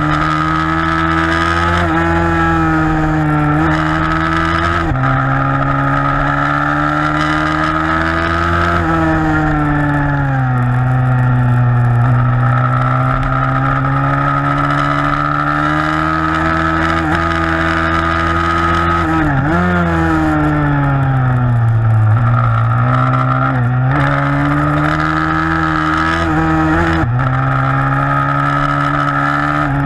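A 160cc single-cylinder four-stroke pit bike engine racing, its pitch climbing under acceleration and falling off into corners over and over. Sudden drops in pitch at gear changes come about five seconds in and near the end, with a quick blip about two-thirds of the way through.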